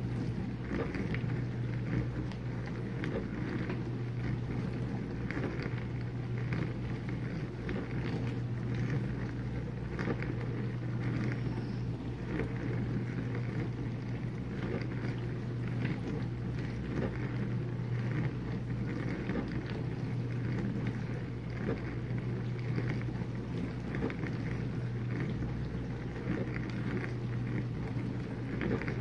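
Whirlpool dishwasher running its wash cycle: a steady motor hum with water spraying and splashing inside the tub.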